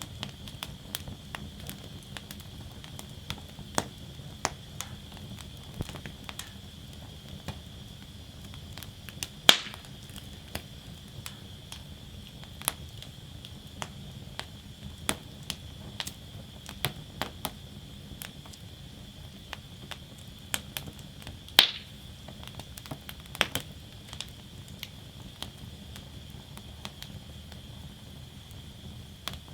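Wood fire burning in a fire basket: irregular crackles and snaps over a steady faint hiss, with two louder pops, one about a third of the way through and one about two-thirds through.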